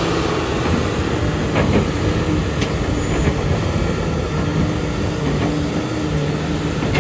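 Diesel engine of a Sany SY365H excavator running steadily, with a few sharp clanks or knocks on top.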